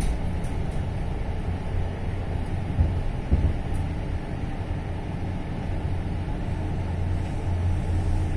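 Running noise inside a Kintetsu electric train car at speed: a steady low rumble of wheels on rail, with a couple of short knocks about three seconds in.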